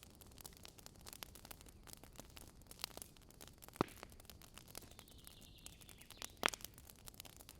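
Wood campfire crackling with a steady patter of small snaps, and two louder pops about four and six and a half seconds in.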